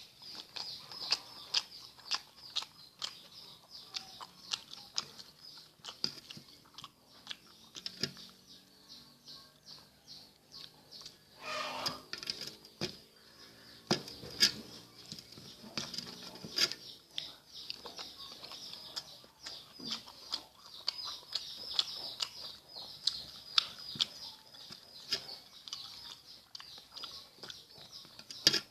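Close-up chewing and wet mouth sounds of someone eating rice with sambal and omelette: many quick smacks and clicks, irregular throughout, with a short noisier stretch about twelve seconds in.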